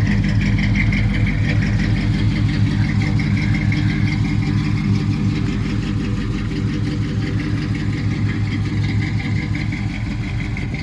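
1984 Chevrolet C10's 305 small-block V8 idling steadily after a cold start, with an even, fast exhaust pulse.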